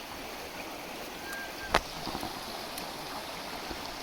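Creek water running steadily over rocks, with one sharp knock a little under two seconds in as a thrown rock strikes the stones.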